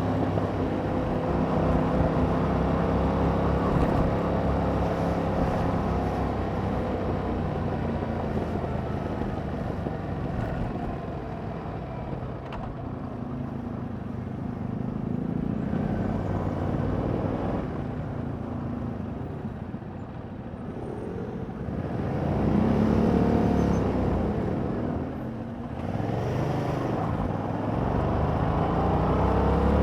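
Yamaha MT-07's 689 cc parallel-twin engine running through its stock exhaust while being ridden, its pitch rising and falling with throttle and gear changes, with a loud climb in revs about 22 seconds in and again near the end.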